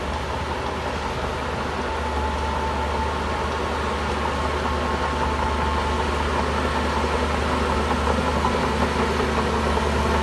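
Shantui bulldozer's diesel engine running steadily, a deep rumble with a steady whine over it, growing a little louder toward the end.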